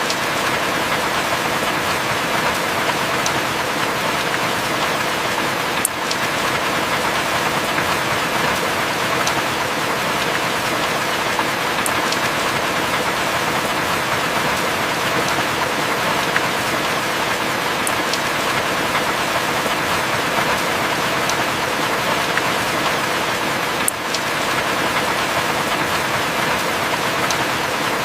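Steady heavy rain: an even, unbroken hiss with a few faint, sharp drip ticks scattered through it.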